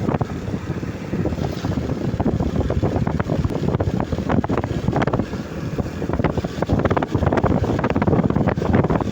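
Rain falling in a strong wind, with the wind buffeting the microphone: a loud, continuous low rumble shot through with many small sharp ticks.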